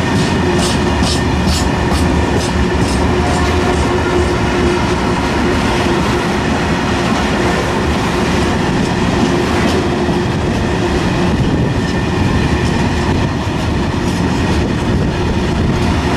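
Freight train of PKP Cargo Fal-type hopper wagons rolling past close by: a loud, steady rumble of wheels on rails. Regular clacks of the wheels over the track, about two a second, are most distinct in the first couple of seconds.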